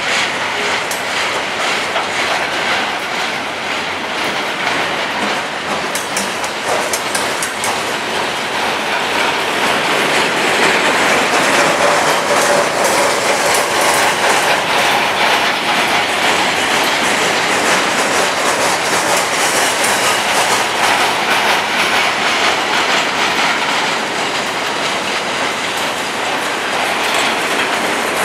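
Freight train cars rolling steadily past on curved track, wheels clacking over the rail joints under a continuous rumble and rattle.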